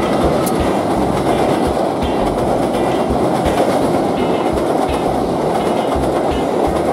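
Diesel-hauled passenger train passing at close range over a steel truss rail bridge: the locomotive goes by, then the coaches roll past. It is a loud, continuous rumble with rhythmic wheel clatter.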